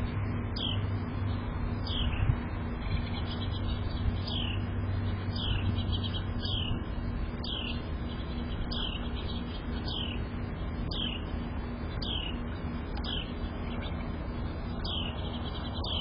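A songbird repeating a short downslurred whistled call about once a second, over a steady low background hum.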